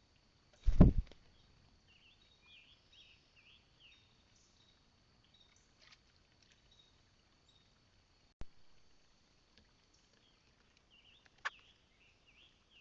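A quick cluster of loud knocks on the bird feeder close to the microphone about a second in, with single fainter taps later, as birds land and peck on the feeder. Birds twitter faintly in the background.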